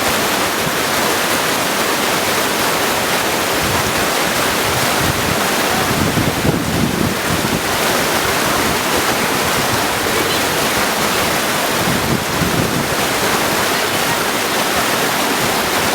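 Mountain creek rushing steadily over stones, a constant even wash of water.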